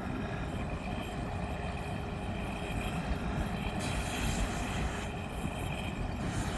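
Steady, distant rumble of a race car's engine running down the mile-long runway course, heard with a low, even haze of outdoor noise.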